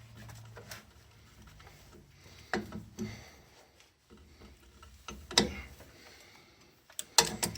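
A handful of sharp knocks and clicks of tools and metal parts being handled, scattered through with a quick cluster near the end, during work on a car's rear drum brakes.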